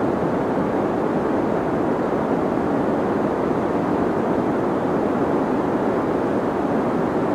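Steady, deep synthetic noise of the kind sold as 'deep white noise' for sleep: an even, unchanging rush weighted towards the low-middle range, with little hiss on top.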